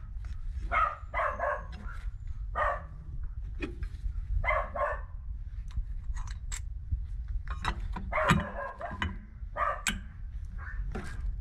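A dog barking in short, repeated barks, mixed with sharp clicks and clinks of metal tools and engine parts being handled, over a steady low hum.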